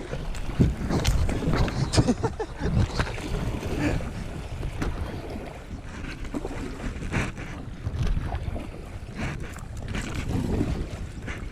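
Kayak on a river: uneven paddle splashes and water sounds, with wind on the microphone and scratching from a lifejacket rubbing against the GoPro.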